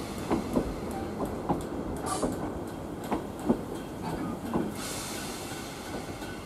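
Class 321 electric multiple unit rolling slowly along the track: a steady rumble with a dozen or so irregular clicks and knocks as its wheels run over rail joints and pointwork, and a soft hiss from about five seconds in.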